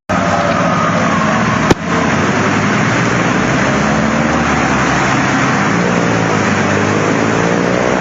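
A motor vehicle's engine running under a loud, steady rushing noise, with one sharp click just under two seconds in.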